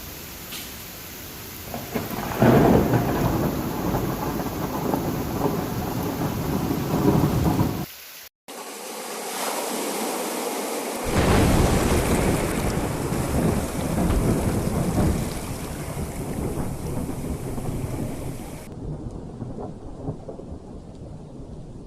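Steady rain with rolling thunder: a long peal of thunder builds about two seconds in and rumbles on until an abrupt cut, then a second long rumble starts about three seconds later and slowly dies away under the rain.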